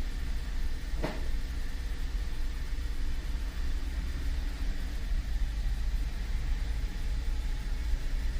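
2013 Cadillac CTS engine and driveline running steadily with a low rumble during a vibration test run, with the driveshaft re-phased one notch to the new differential. A single brief click about a second in.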